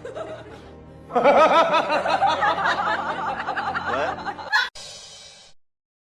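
High-pitched laughter in quick, bouncing bursts, starting about a second in and stopping about four and a half seconds in, with music behind it.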